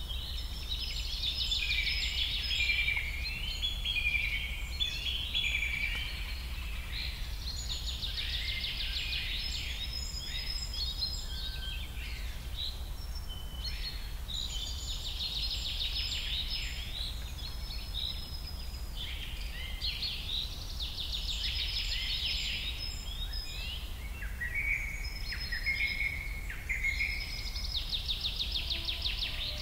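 Birds singing: bursts of fast trills and short falling chirps, repeated every few seconds, over a steady low hum.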